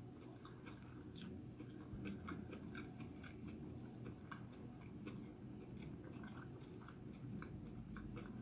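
Faint mouth sounds of someone chewing a vegetable-filled sushi roll: many small, soft wet clicks scattered irregularly.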